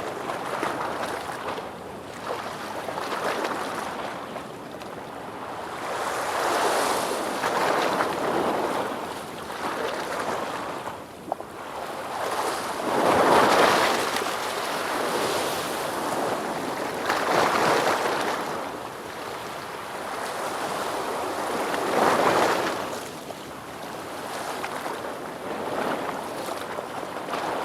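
Ocean waves rolling in and washing on the shore, a steady wash of surf that swells every four or five seconds, loudest about thirteen seconds in.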